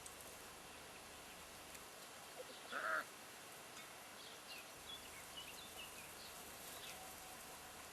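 Smooth collie puppies whimpering: one short, louder yelp about three seconds in, then a few faint high squeaks.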